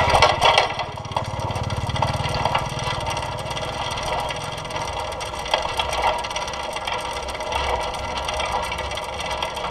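Small engine running steadily, with scattered rattling knocks, picked up by a camera mounted on a moving bike.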